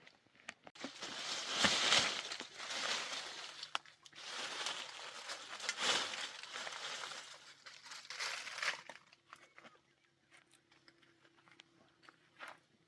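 Rustling and crinkling in three long stretches with a few sharp clicks, then quieter near the end.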